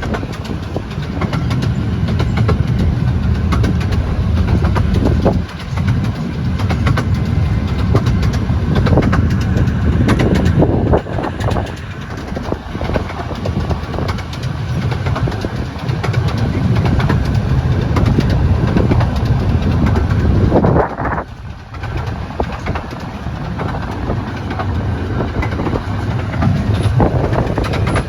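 Romney, Hythe & Dymchurch Railway miniature train running along the track: a steady low rumble with continual clicking of wheels on the rails, dipping briefly twice.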